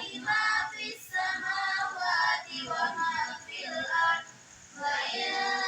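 A high-pitched voice singing in short phrases, with music.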